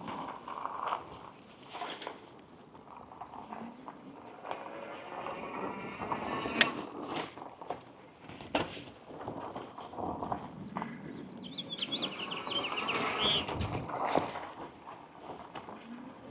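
Fat-tire bike riding over rough off-road ground: tyre noise on the dirt with frequent sharp clicks, knocks and rattles from the bike.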